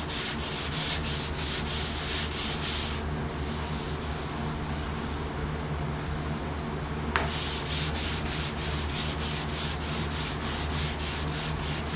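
Hand sanding on a truck cab's sheet-metal roof, the sanding block scraping back and forth at about three strokes a second over a Bondo repair that was left rough. The strokes ease for a few seconds in the middle, and a sharp click comes about seven seconds in, over a steady low hum.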